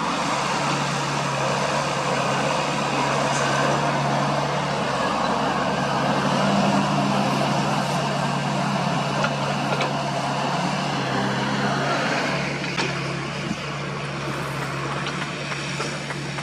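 Diesel engine of construction machinery running steadily under a loud rushing noise. The noise eases about twelve seconds in, and a few light knocks follow.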